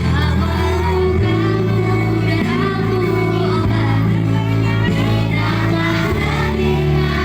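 A child singing a slow melody over music with held bass chords, which change about a second in and again near the end.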